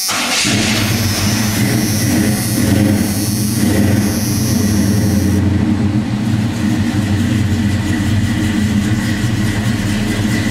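1986 Chevrolet pickup's GM crate engine with a Holley carburetor catching on a cold start with a charger-boosted battery and running steadily at a fast idle. A high whine sits over it for the first five seconds or so, then stops.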